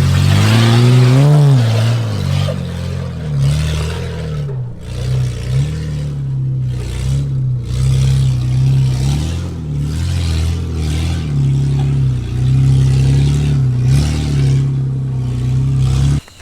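Nissan GQ Patrol's carburetted TB42 4.2-litre straight-six running with no exhaust, revving sharply about a second in, then rising and falling in revs as it works up a rutted rock track. The sound cuts off suddenly near the end.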